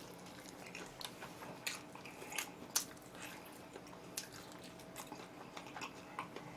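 Close-up chewing and biting of crispy-skinned oven-roasted chicken: a run of small, irregular crunches and moist clicks, over a faint steady hum.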